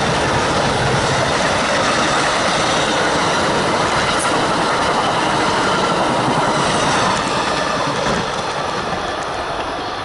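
Amtrak Silver Star passenger train passing, a steady rush and rumble of its wheels on the rails, fading from about seven seconds in as the train draws away.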